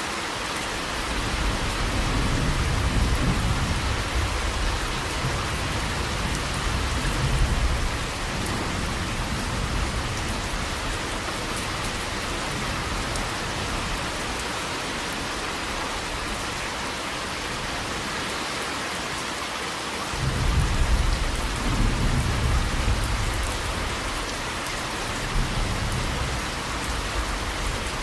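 Steady rain falling throughout, with two long rolls of thunder: one starting about a second in and fading after about seven seconds, and another starting about twenty seconds in and rolling on to the end.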